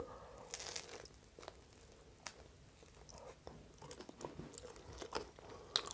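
A person biting into and chewing a French hot dog in a toasted bun, close to the microphone: soft crunches and wet mouth clicks, with one sharper click near the end.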